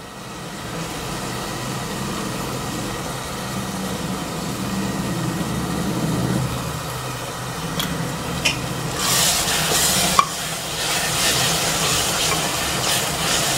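Tomato-onion masala with mint paste sizzling and bubbling in oil in a metal pot over a gas flame. From about nine seconds in, a wooden spatula stirs and scrapes through it, louder and scratchier.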